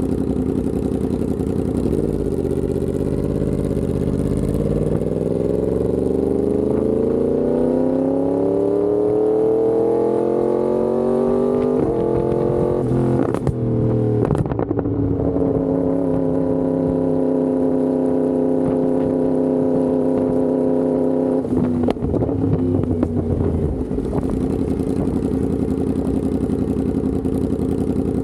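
Yamaha R1M's crossplane inline-four through an SC Project exhaust, accelerating with its pitch rising steadily for about ten seconds. A short break in the sound about thirteen seconds in, then the engine holds a steady pitch, drops off a few seconds later and settles low.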